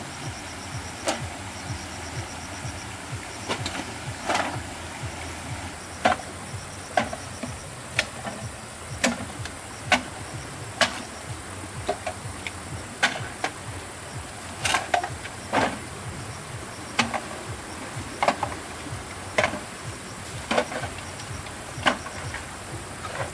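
Sharp knocks or taps, irregular and roughly one a second, over a steady low hum.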